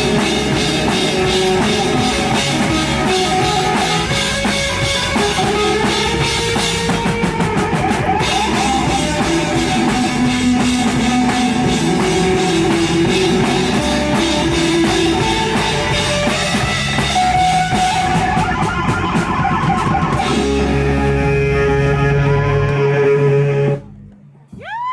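Live heavy rock band playing loud, with a pounding drum kit and distorted guitar. The song stops abruptly about a second before the end, and a whoop from the crowd rises as it cuts off.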